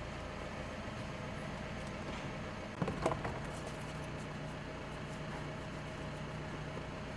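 Engine of a parked Mitsubishi pickup idling, a steady low hum, with a few light clicks about three seconds in.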